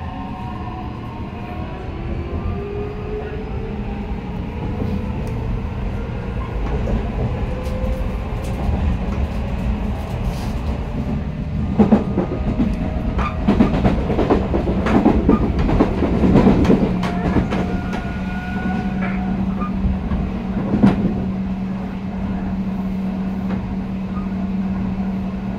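Running sound of an Odakyu electric train heard from inside the car. A motor whine rises slowly in pitch as the train picks up speed. Around the middle the wheels clack and knock over rail joints, and then a steady low hum settles in at speed.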